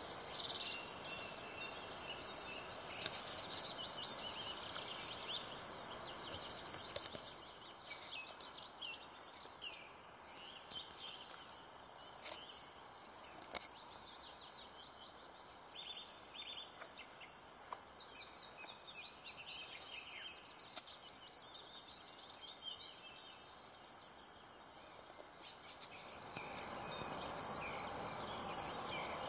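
Several songbirds singing, with many short high chirps and trills overlapping, over a faint steady outdoor hiss.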